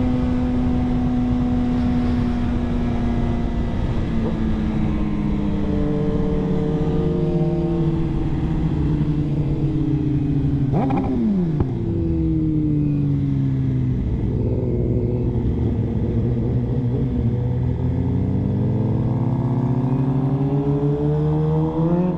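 Suzuki GSX-R sportbike's inline-four engine under way on the road, with wind rush on the microphone. The revs ease down slowly, a brief steep drop in pitch comes about halfway through, and the revs climb again near the end.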